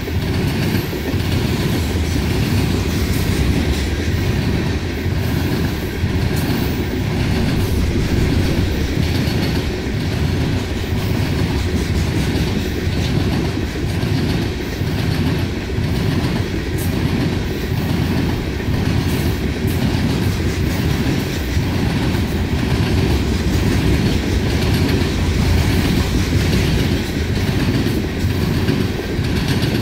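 Loaded open-top hopper cars of a freight train rolling steadily past close by: a continuous low rumble with the rhythmic clickety-clack of wheels over the rail joints.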